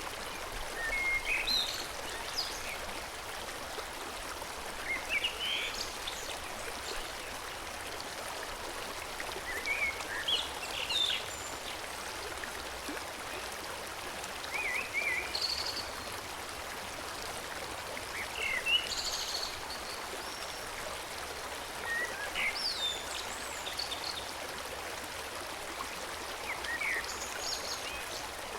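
Forest stream flowing steadily, with a songbird singing short chirping phrases about every four seconds.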